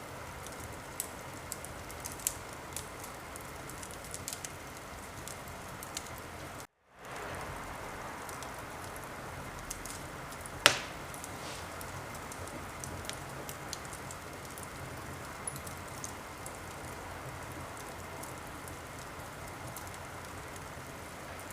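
Wood fire crackling: a steady hiss with scattered small sharp pops, and one much louder pop about ten and a half seconds in. The sound cuts out for a moment just before seven seconds in.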